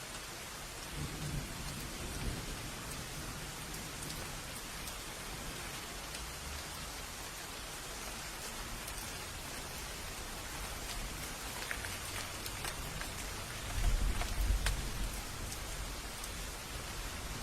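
Steady heavy rain with scattered drips, and low rolls of thunder: a faint one early and a louder rumble about three-quarters of the way through.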